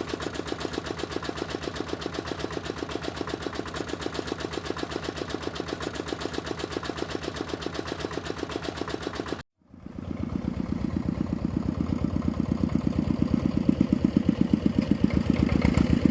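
Small electric motor of a homemade toy tractor running with a fast, even chatter. It cuts off abruptly about nine and a half seconds in and starts again a moment later, sounding lower and fuller.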